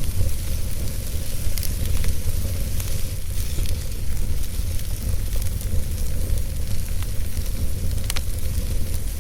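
Wood fire burning in a fireplace: a steady low rumble and hiss with scattered sharp crackles, the loudest pop a little past eight seconds in.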